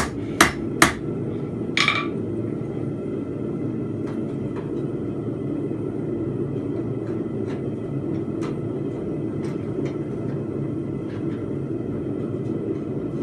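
Three quick hammer blows on the anvil, then a ringing metallic clang about two seconds in as the work is set down. After that, a steady low noise of the forge running while the bar reheats, with a few faint ticks.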